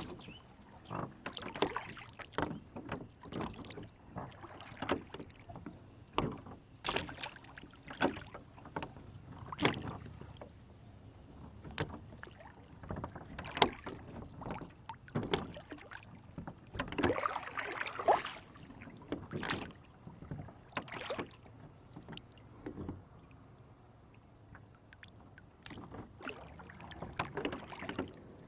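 Water slapping and sloshing against the hull of a small rowboat on a lake, with irregular knocks and splashes, a louder cluster of them past the middle.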